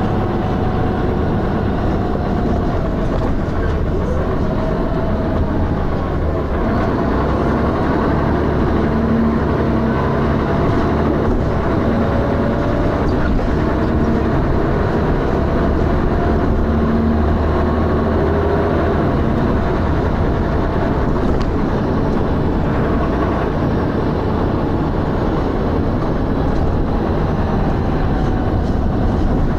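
Dennis Arrow double-decker bus heard from on board, its diesel engine thrashing loudly under way. The engine note rises and falls as the bus drives.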